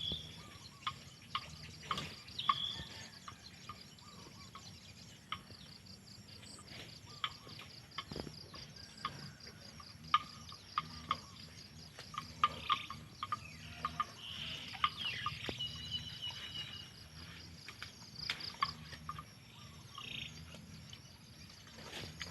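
Outdoor rural ambience: insects trill steadily and fast, with scattered bird chirps and many short sharp clicks over a low rumble.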